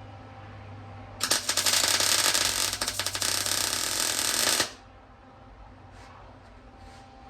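Welding arc on steel plug-weld holes in a springer fork leg, a dense, loud crackle that starts about a second in and cuts off after about three and a half seconds. A low steady hum runs underneath.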